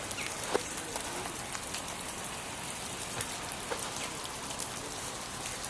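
Sleet falling steadily on icy surfaces: an even hiss scattered with many small ticks of pellets striking.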